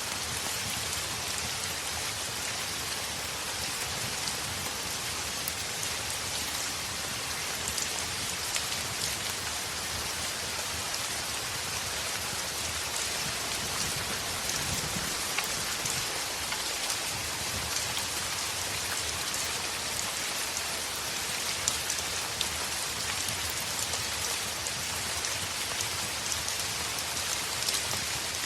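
Heavy rain falling steadily on a window, with many small scattered ticks and pops through the steady hiss.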